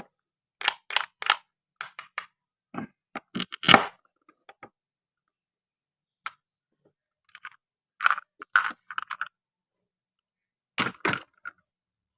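Sharp clacks and taps of toy kitchen play, a toy knife cutting and knocking on wooden and plastic toy fruit and vegetables, in several quick clusters with short pauses between; the loudest knock comes a little before the middle.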